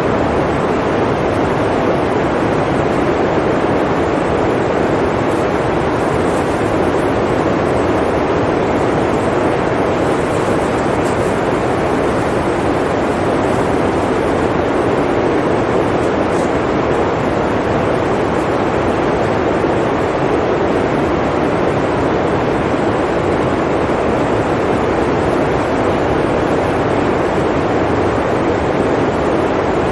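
Blizzard wind blowing steadily, an even rushing noise that neither gusts nor fades.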